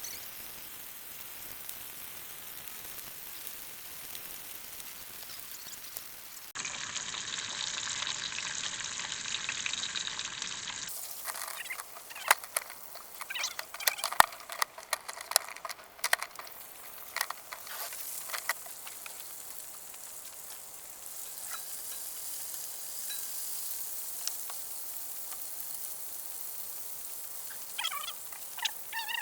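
Breakfast food frying in a pan with a steady sizzle, broken by a run of sharp clicks and scrapes of a utensil working the pan. Short chirping bird calls come in near the end.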